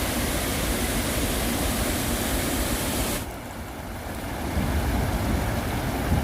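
Steady rush of flowing stream water, a dense even hiss; about three seconds in the high part cuts off abruptly, leaving a lower rumble with wind buffeting the microphone.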